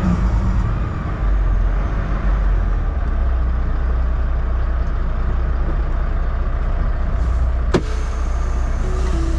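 Heavy truck running on the road, a steady low rumble with a single sharp click near the end.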